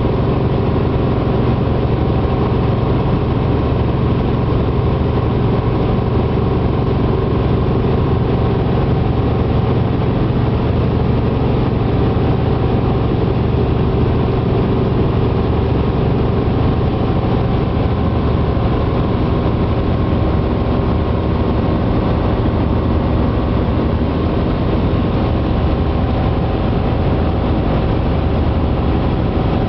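Helicopter running with a steady engine and rotor drone, a constant hum carrying several steady tones with no change in pitch.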